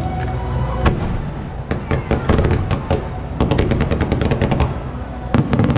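Aerial fireworks launched over a lake and bursting: a single sharp bang about a second in, then quick runs of rapid crackling reports, and a couple of heavy bangs near the end. Music plays underneath at the start.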